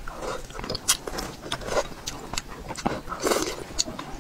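Wet chewing and smacking of braised fish, close to the microphone, with many short sharp clicks scattered throughout.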